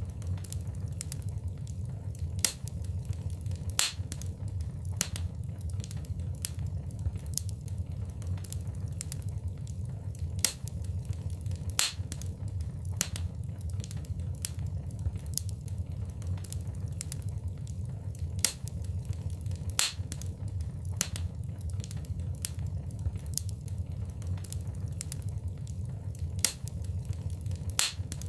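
Wood fire burning in a fireplace: a steady low rumble with irregular sharp crackles and pops, a handful of them louder than the rest.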